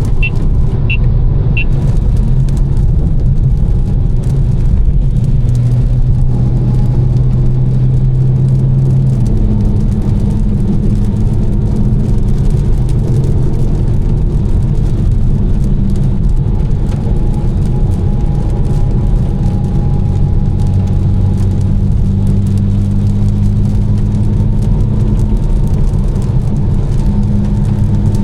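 Tuned BMW M4's twin-turbo inline-six, with catless downpipes and an Fi exhaust, running steadily at cruise; its pitch shifts a little about nine seconds in. Three short high beeps sound near the start.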